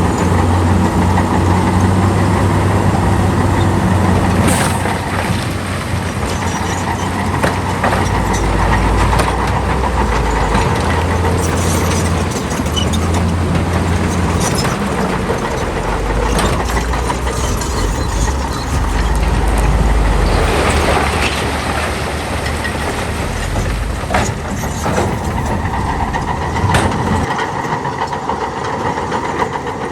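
Heavy diesel earthmoving machinery running under load, its low engine note shifting as it works, with a few sharp clanks and knocks.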